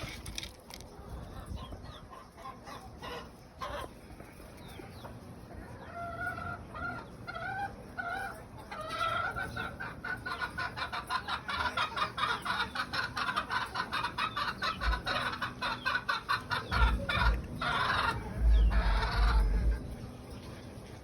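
Game birds in a pen calling: a few short rising calls about six seconds in, then a fast run of repeated clucking calls, several a second, that grows louder. Low thumps near the end.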